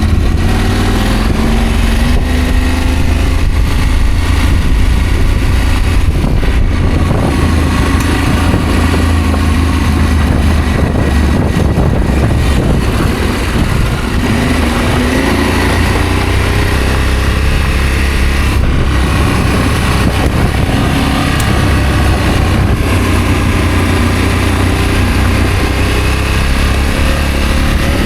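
Adventure motorcycle engine running under way, its pitch rising and falling repeatedly with throttle and gear changes, over a steady low rumble.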